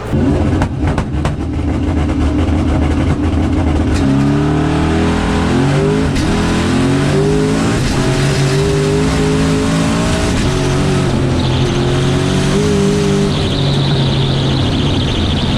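Drag car launching hard and accelerating down the strip, its engine rising in pitch and dropping back at each upshift several times through the gears. A high whine joins in near the end.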